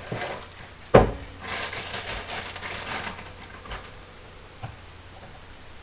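Kitchen handling noises as a pancake mix package is fetched: a single sharp knock about a second in, then rustling and a few light knocks.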